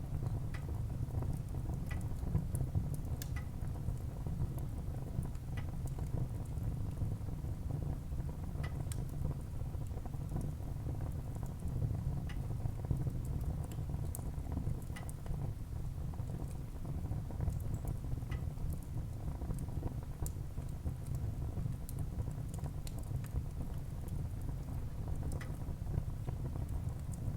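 Wood fire burning in a fireplace: a steady low rumble of the flames with scattered, irregular sharp crackles and pops from the burning logs.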